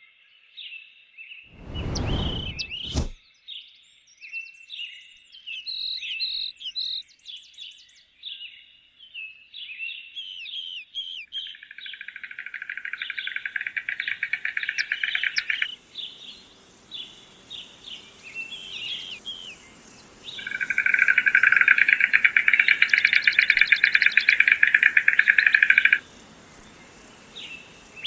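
Birds chirping and twittering, with two long, fast rattling trills in the middle and near the end, the later one the loudest. A brief low thump comes about two seconds in.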